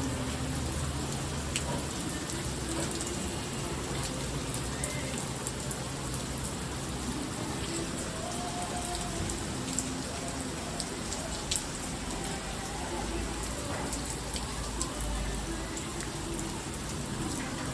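Steady rain falling, with scattered sharp taps of drops striking close by.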